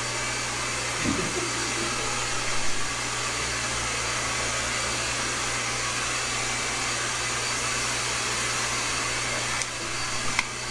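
Hair dryer or air blower running steadily: a constant airy hiss over a low motor hum, which eases off shortly before the end.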